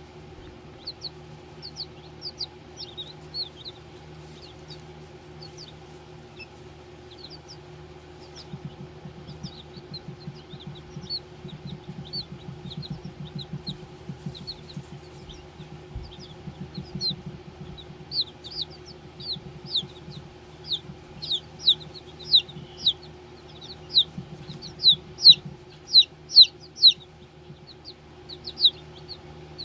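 Baby chicks peeping: many short, high, falling peeps that come thicker and louder in the second half, over a steady low hum.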